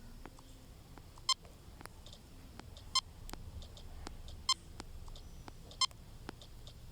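Checkout barcode scanner beeping four times, a short electronic beep every second and a half or so as items are scanned.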